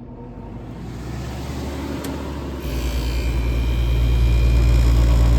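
Vintage window air conditioner starting up. Its fan motor spins up and grows louder, then a click about two seconds in is followed by the compressor kicking on with a loud, steady low hum.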